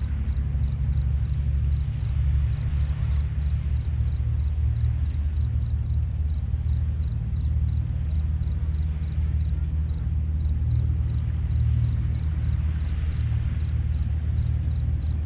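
Atlantic surf washing gently at low tide as a steady low rumble, with waves swelling a little about two seconds in and again near the end. Over it, a cricket chirps in a steady rhythm, about three short chirps a second.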